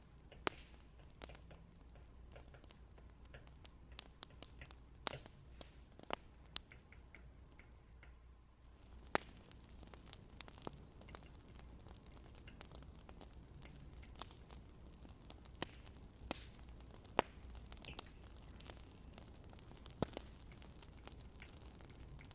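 Wood fire crackling: irregular sharp pops and snaps, a few louder than the rest, over a faint steady hiss.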